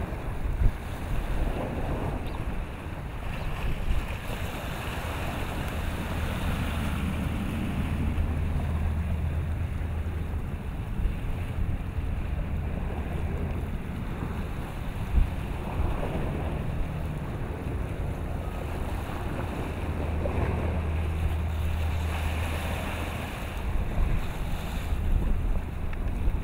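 Wind buffeting the microphone with a heavy low rumble that swells and eases, over the wash of choppy water. There are a few brief thumps.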